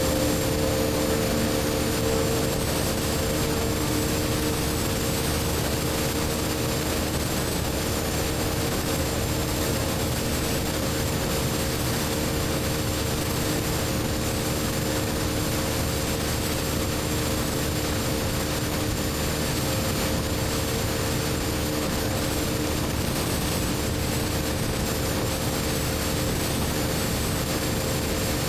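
BMW R1250GS Adventure's boxer-twin engine, breathing through an Akrapovic slip-on exhaust, running at a steady cruise with an unchanging pitch, under a steady rush of wind noise.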